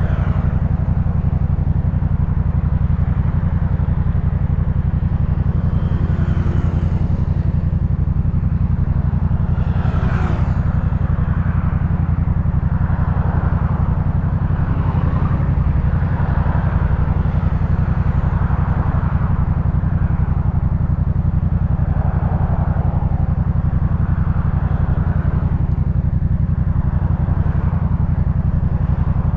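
Yamaha MT-07's 689 cc parallel-twin engine, breathing through an aftermarket Jeskap K4 full exhaust, running at a steady engine speed with a deep, even exhaust note.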